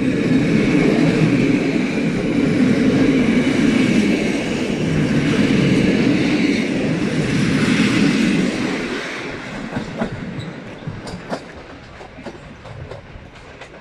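TLK passenger coaches rolling past as the train departs: a loud, steady rumble of wheels on rail that fades away from about nine seconds in as the last coach goes by, leaving a few faint clicks.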